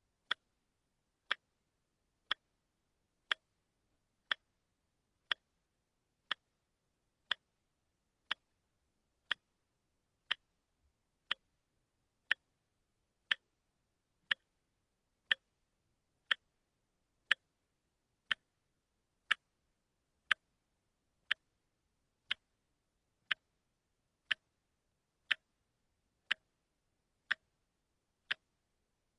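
Wristwatch ticking: sharp, evenly spaced ticks, one per second, the beat of a quartz movement.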